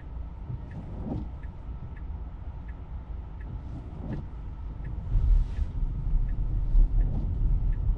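Low road and tyre rumble inside a Tesla's cabin as it drives on snow-covered streets, growing louder about five seconds in. A faint, regular ticking runs under it at a bit under two ticks a second.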